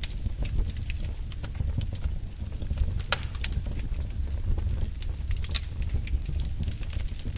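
Wood fire burning in a fireplace: a steady low roar of the flames with scattered sharp crackles and pops, one louder pop about three seconds in and a quick run of them a couple of seconds later.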